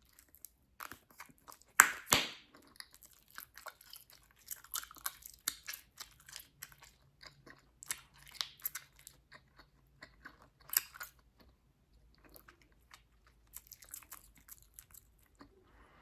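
Bubblegum being chewed close to the microphone: a steady run of small wet clicks and smacks. Two loud, sharp gum snaps come about two seconds in, and another near eleven seconds.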